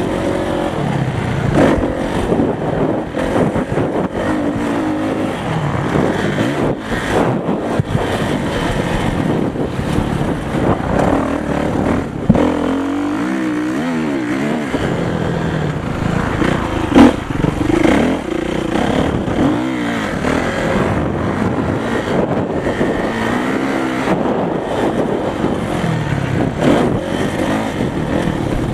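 Motocross bike engines revving up and down as the throttle opens and closes, with a sharp knock a little past the middle.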